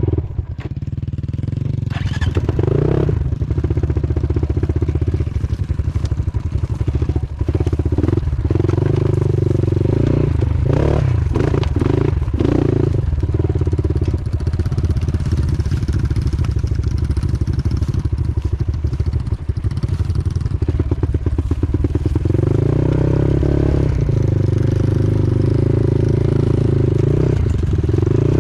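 Off-road motorcycle engine running under way, its revs rising and falling, with scattered knocks and clatter.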